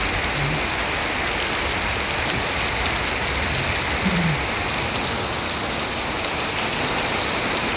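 Heavy rain falling steadily, an even, dense hiss of a downpour.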